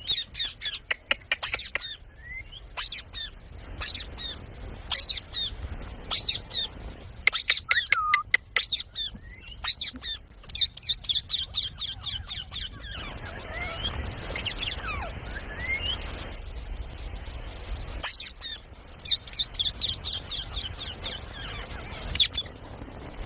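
Ringneck parakeets giving runs of short, shrill squawks in quick succession, with a softer stretch of gliding chirps about halfway through.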